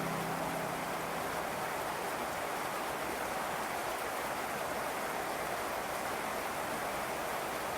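Steady rain, an even hiss with no individual drops standing out, as the tail of a sustained music note fades away in the first moment.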